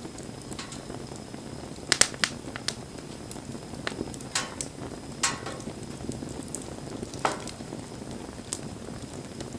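Wood campfire burning: a low steady rush of flame with scattered sharp crackles and pops, the loudest a quick cluster about two seconds in, some trailed by a short hiss.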